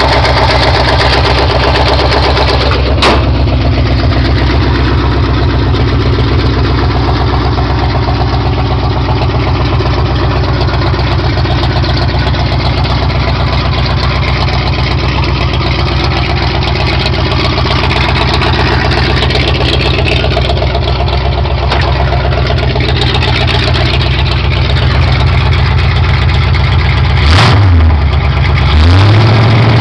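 Built AMC 360 V8 with headers in a drag car, idling steadily, then revved twice near the end, rising and falling in pitch each time.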